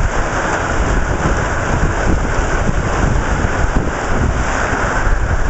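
Heavy rain pouring down in a strong wind, with gusts buffeting the microphone in a loud, steady rush.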